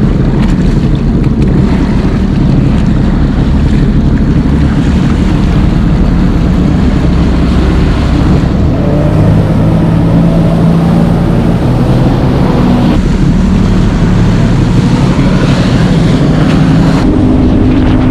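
Jet ski running across choppy water, its engine droning under heavy wind buffeting on the microphone and the slap and spray of the hull. The engine note shifts and climbs about halfway through.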